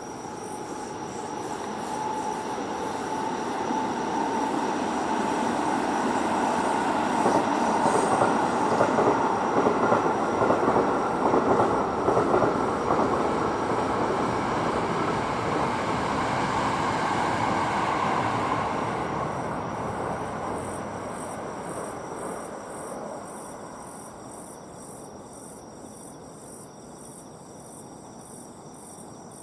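A train passing on the line below: its running noise builds over several seconds, holds loud for about ten seconds, then fades away. A steady whine is heard early on, and crickets chirp before the train drowns them out and again after it has gone.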